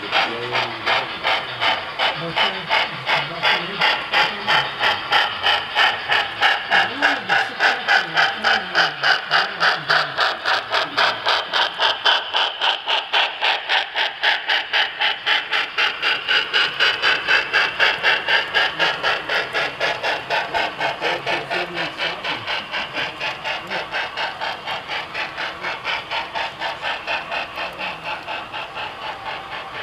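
Model PRR J-1 2-10-4 steam locomotive's sound system chuffing in a fast, even rhythm as it pulls a freight train away, growing fainter near the end.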